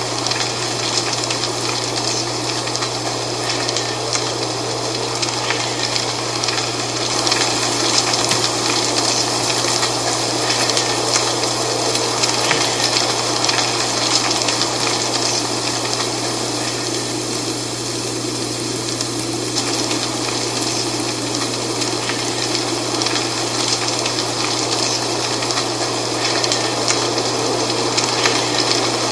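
Dry fall leaves rustling in steady wind: a dense, continuous crackle over a rushing noise, with a steady low hum underneath.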